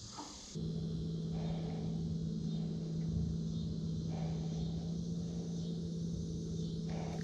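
A steady, even hum, like a small electric motor on the boat, switches on suddenly about half a second in and keeps running at one pitch.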